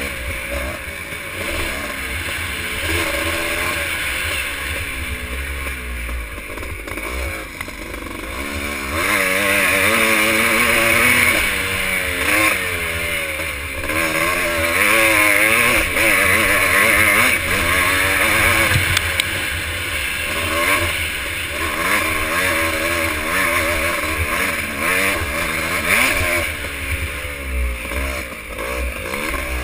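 Vintage motocross motorcycle engines racing, revving up and down again and again as the bikes accelerate and shift; louder from about nine seconds in.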